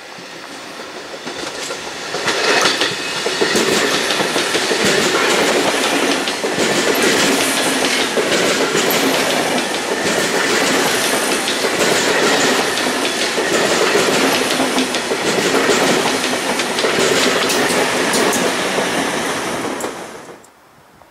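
Double-deck electric passenger train passing on a curve, its wheels rumbling and clacking over the rails. The sound builds over the first couple of seconds, stays loud, then cuts off suddenly near the end.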